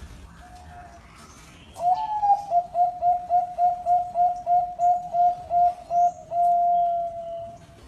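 Perkutut (zebra dove) singing: a short coo, then a quick string of rolling coos at about three or four a second, ending in one long drawn-out coo.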